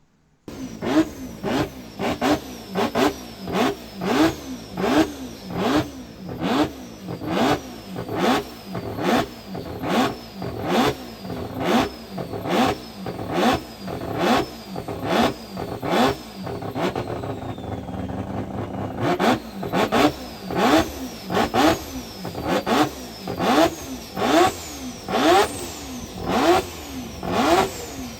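Four-rotor Mazda rotary engine revved in sharp blips about once a second, the pitch shooting up and falling back each time. About two-thirds of the way through it drops to idle for a couple of seconds, then the blipping resumes.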